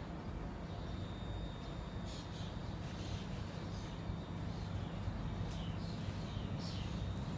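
Low steady hum of a ScotRail electric multiple-unit train moving slowly through the station, with birds calling in short downward notes a few times.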